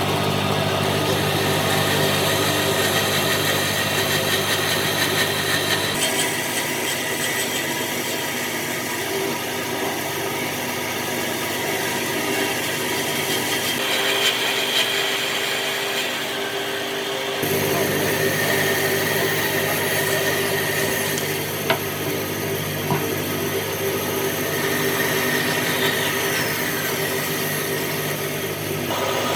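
Electric power tool working wood: a steady motor hum under a rough scraping noise. The sound changes abruptly several times.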